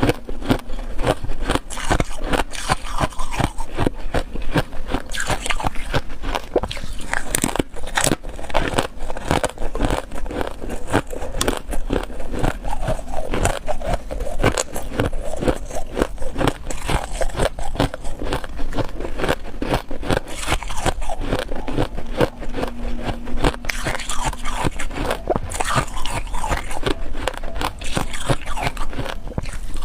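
A person biting and chewing ice, a dense run of crisp crunching and crackling without pause.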